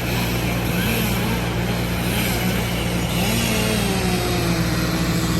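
A large engine running steadily at constant speed.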